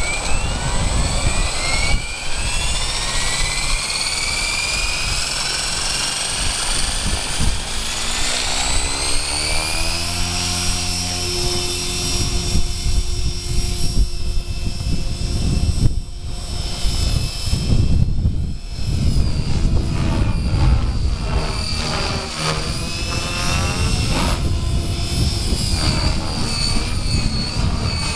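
Gaui X5 electric RC helicopter spooling up, the whine of its motor and rotors rising in pitch over the first ten seconds or so, then running at a steady head speed with small wavers in pitch.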